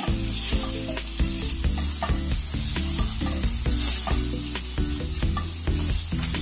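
Prawns and chicken pieces sizzling in hot oil in a frying pan and being stirred with a spatula, over background music with a steady bass line.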